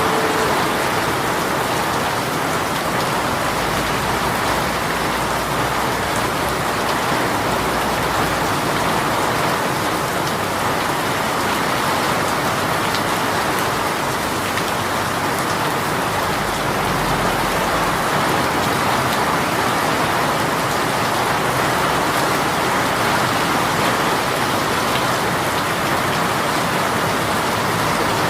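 A sudden heavy rain shower pouring steadily, an even, unbroken wash of rain falling on surfaces.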